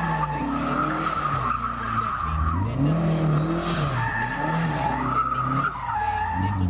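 A pickup truck's engine revving up and down repeatedly, about three swells, while its spinning rear tyres squeal and skid on the pavement.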